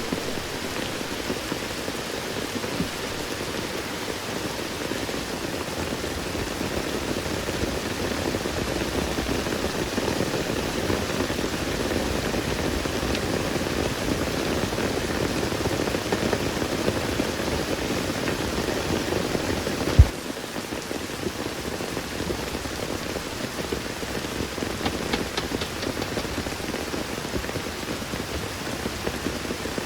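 Steady rain falling in a forest. About two-thirds of the way through, a sharp click, and the rain sound changes abruptly to a lighter, thinner patter.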